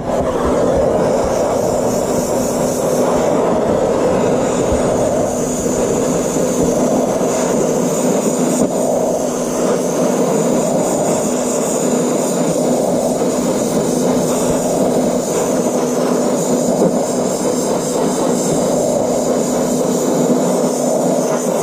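A long, steady weld: the arc hisses and crackles evenly for the whole stretch over a constant low hum, starting abruptly at the outset.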